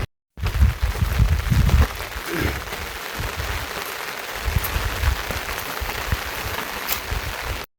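Rain falling steadily, an even hiss, with low thumping through the first two seconds.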